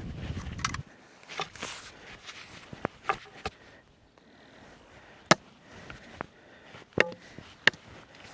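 Irregular sharp knocks and taps on a hard surface, several seconds apart. The loudest comes about five seconds in, and two more come near the end.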